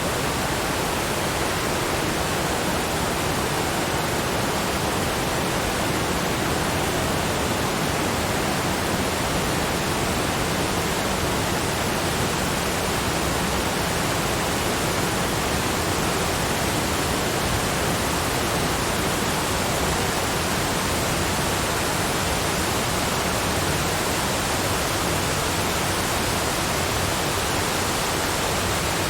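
Waterfall: water falling and splashing in a steady, even rush of noise with no breaks.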